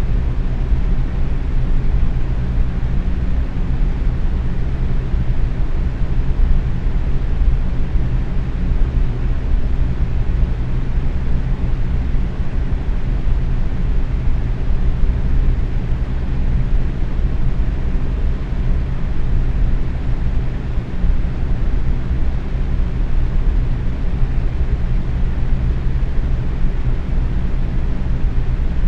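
Box fan running steadily at medium speed: a constant low whoosh of moving air with a steady motor hum beneath it.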